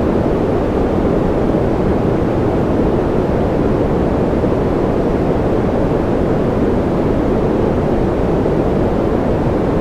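Steady, unchanging white-noise sleep sound: an even deep rushing hiss, strongest in the low-mid range, with no drops, clicks or rhythm.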